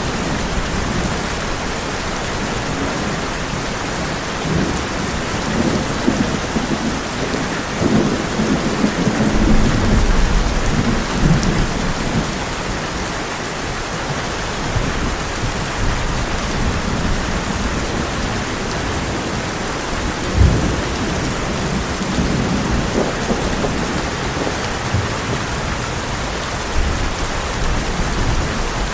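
Heavy rain drumming steadily on a tin roof, with thunder rumbling low in the background, swelling several times and with one short sharp crack about two-thirds of the way through.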